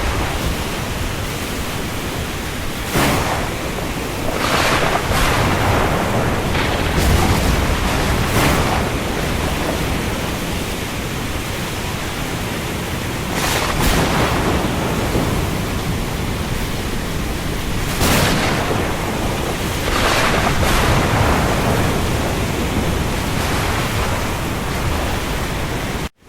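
Steady rushing noise of rain over the open sea, with louder washes of surf rising and falling every few seconds. The sound cuts out for a split second at the very end.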